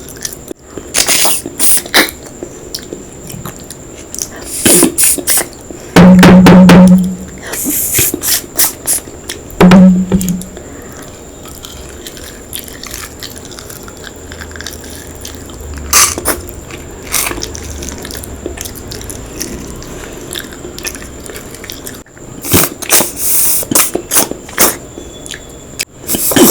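Close-miked eating sounds: scattered wet smacks, clicks and crunches of chewing a mouthful of curry, rice and chicken roll, with two short, loud low hums, about six and ten seconds in.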